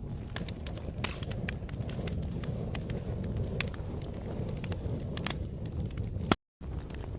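Wood fire crackling, with irregular sharp pops and snaps over a low steady rumble. Near the end a louder pop is followed by a brief cut to total silence before the crackling resumes.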